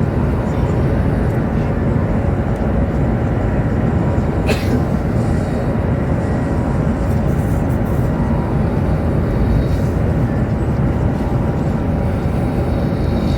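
Steady low rumble of a Chinese high-speed bullet train running at speed, heard from inside the passenger cabin, with one brief click about four and a half seconds in.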